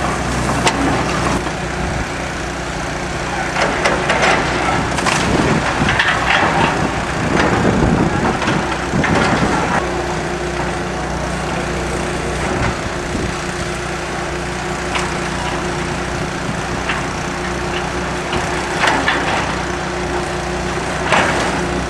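Heavy demolition machinery running steadily while wooden building structure cracks, splinters and is crushed as it is torn down. The cracking is densest from about four to ten seconds in, with more near the end.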